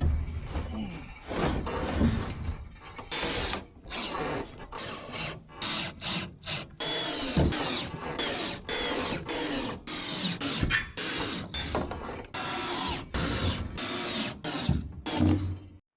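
Power tool running in many short bursts, a second or so each, with abrupt starts and stops, as during a metal-and-wood frame build.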